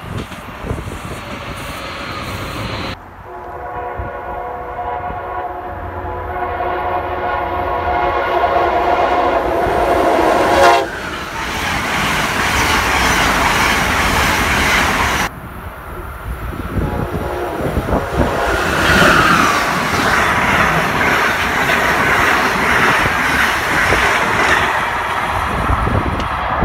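Electric passenger trains passing at speed with a steady rumble and wheel clatter. About three seconds in, a multi-note train horn sounds one long chord, held for about eight seconds.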